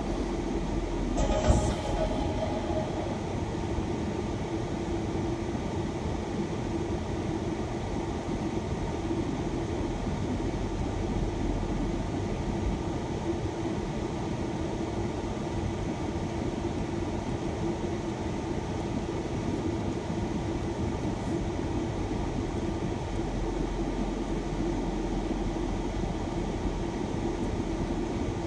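Steady drone of a shuttle van's engine and road noise heard inside the cabin, with one sharp click about a second and a half in.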